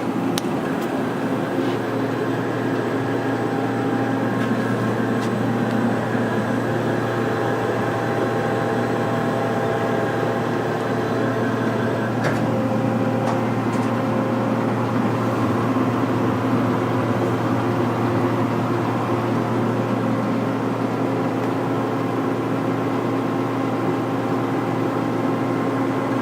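Mori Seiki SL-8 CNC lathe running under power: a steady machine hum with several constant tones over it, holding level throughout, with a faint click about twelve seconds in.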